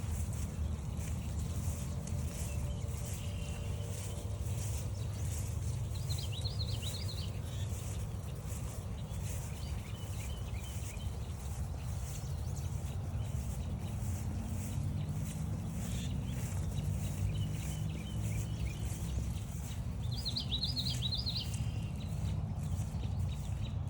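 Footsteps on a forest trail at about two steps a second over a steady low rumble, with a songbird singing a short, fast song twice: about six seconds in and again near twenty seconds.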